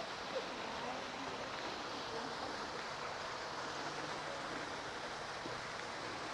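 Waterfall splashing steadily: an even, unbroken rush of falling water.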